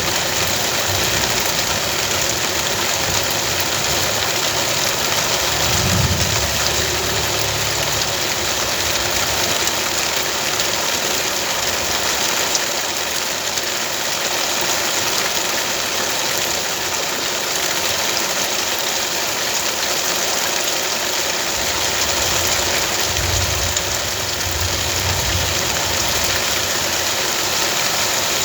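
Steady rain, a constant hiss, with a low steady hum underneath and a few brief low rumbles.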